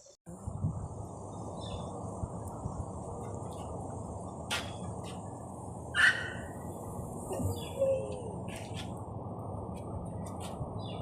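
Outdoor ambience: birds chirping a few times, loudest about four and six seconds in, over a steady low rush of background noise and a faint high insect hum.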